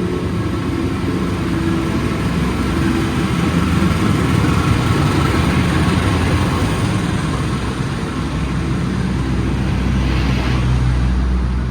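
Diesel locomotive of an arriving passenger train running slowly into the platform: a steady low engine hum over the noise of the train rolling on the rails.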